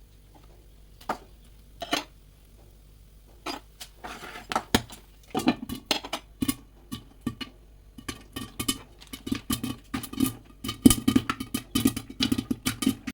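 Popcorn kernels popping in a covered pot, striking the pot and lid: a few single pops at first, then from about four seconds in the pops come thick and fast.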